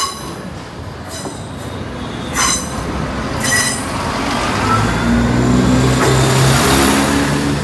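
East Midlands Railway Class 170 Turbostar diesel multiple unit passing at close range over a level crossing. Its wheels give a few sharp clacks over the rail joints, then the underfloor diesel engines grow louder as the cars go by, with a faint wheel squeal.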